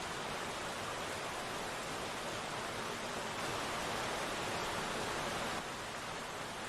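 Steady rain falling: an even hiss of many raindrops with no separate drips, dipping slightly in level near the end.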